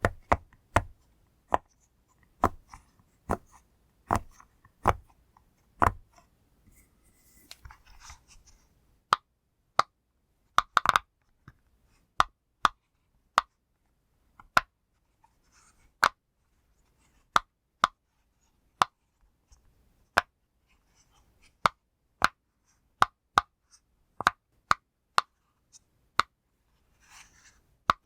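Silicone push-pop fidget toy being pressed bubble by bubble, each press giving a short sharp pop, at an uneven pace of one or two pops a second. Faint handling rustle twice.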